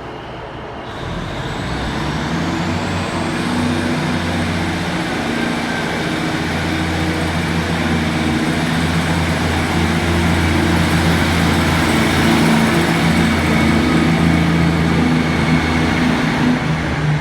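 Class 150 Sprinter diesel multiple unit's underfloor Cummins diesel engines running and building up, a steady low engine note growing gradually louder, with a faint whine rising in pitch about two seconds in.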